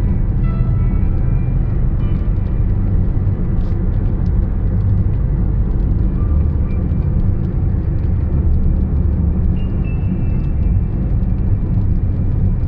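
Steady low rumble of a car travelling at highway speed, tyre and wind noise heard from inside the moving vehicle.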